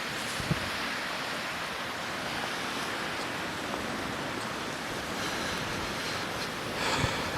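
Rough, storm-driven lake waves washing and breaking on the shore, with wind blowing, as a steady rush of noise; a louder surge comes about seven seconds in.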